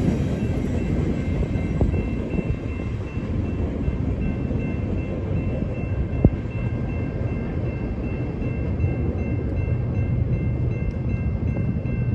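Freight train's last cars rolling away past a grade crossing: a steady low rumble, with crossing bells ringing steadily above it. One sharp click about six seconds in.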